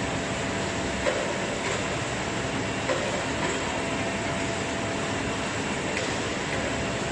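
Steady running noise of a whole-chicken weight sorting line, a conveyor-and-weighing machine in a poultry plant, with a few brief clanks, about one and three seconds in.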